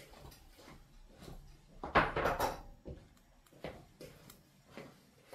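Kitchen tidying: scattered light knocks and clatters of containers and utensils being handled and put away, the loudest cluster about two seconds in.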